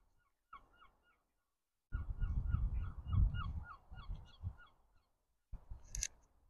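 A large waterside bird, goose or gull, calling a rapid series of short, honking notes, about four a second for nearly three seconds, over a low rumble. A sharp click comes near the end.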